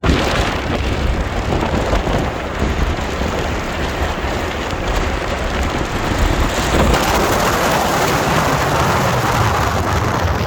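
Wind buffeting the microphone outdoors: a steady rushing noise with a heavy low rumble that swells a little past the middle.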